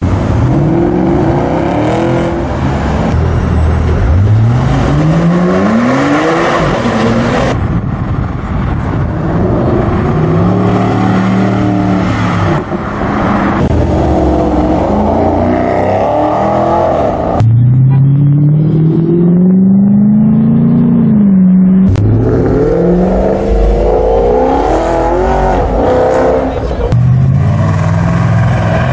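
A string of short cuts of high-performance car engines revving and accelerating away, the engine pitch climbing through the gears in several pulls. A Porsche Cayenne GTS V8 is heard at the start and a Porsche Panamera GTS V8 around the middle.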